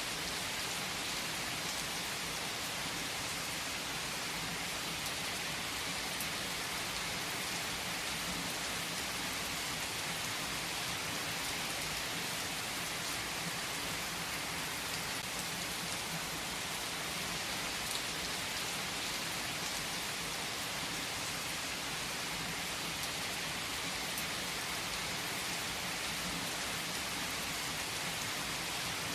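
Steady, heavy rain falling on a surface: an even hiss with faint scattered drop ticks and no let-up.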